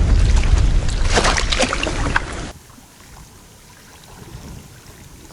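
Wind buffeting the microphone as a loud low rumble, with rustling and clicking from handling, cutting off abruptly about two and a half seconds in; after that only a faint steady outdoor hiss.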